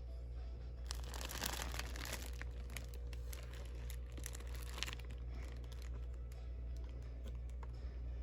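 Packaging being crinkled and torn open by hand: a dense rustle about a second in, more bursts of crinkling up to about five seconds in, then scattered light clicks and taps. A steady low hum runs underneath.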